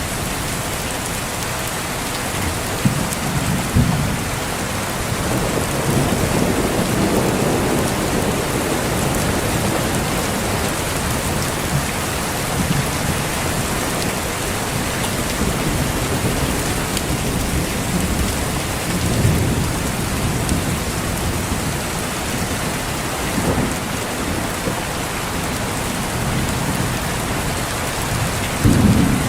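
Steady heavy rain, with several low rolling rumbles of distant thunder; the loudest rumble comes near the end.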